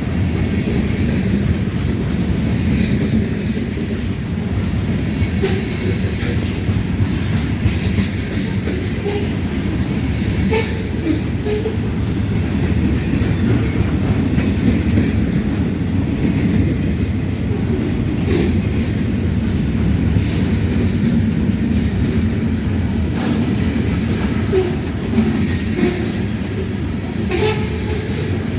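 Freight train rolling steadily past, a continuous low rumble of wagons on the rails with scattered clicks as the wheels cross rail joints.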